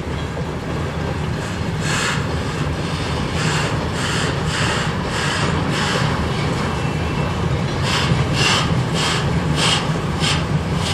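Freight train cars rolling past with a steady low rumble and runs of sharp clacks about two a second as the wheels cross the rail joints. A thin squeal is briefly heard twice.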